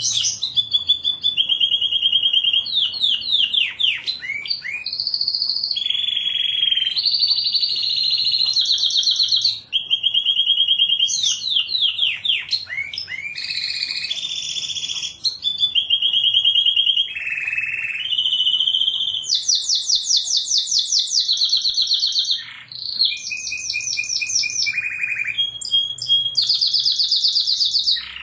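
Domestic canary singing a long unbroken song of fast trills and rolls, each held for a second or two before jumping to a higher or lower pitch.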